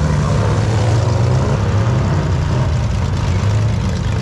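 Airboat engine and propeller running loudly and steadily, the engine note wavering slightly.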